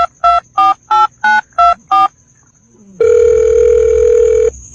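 Telephone keypad tones: seven quick two-pitch beeps as a number is dialled. After a short pause comes a single steady tone lasting about a second and a half.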